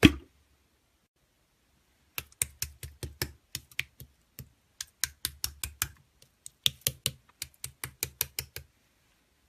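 Slime being pressed and squeezed in the hands, making quick crisp clicking pops about five or six a second, in runs with brief pauses.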